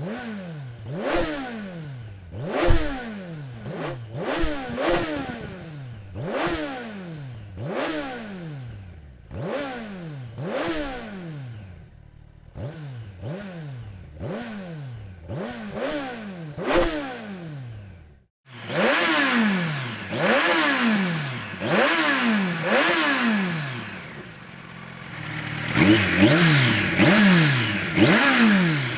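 Kawasaki Ninja 1100 SX inline-four engine revving through a Scorpion slip-on exhaust: repeated quick throttle blips about every second and a half, each rising fast and falling back toward idle. About two-thirds through, the sound drops out for a moment, then the blips go on with a harsher, hissier tone.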